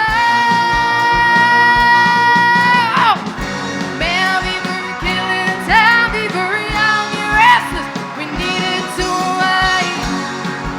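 Rock music with a steady kick-drum beat. A lead line holds one long note for about three seconds, then drops and moves on in bending, sliding phrases.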